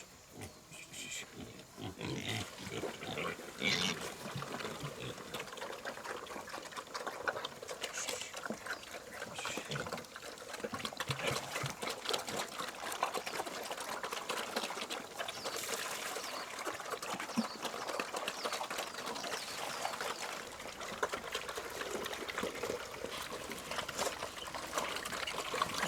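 Several pigs grunting over a continuous busy crackle of small clicks and trickling liquid.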